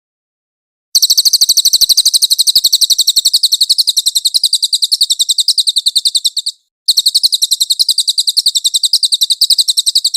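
Songbird trilling: a fast, even train of high, sharp notes, about a dozen a second, held for over five seconds, breaking off briefly and then resuming.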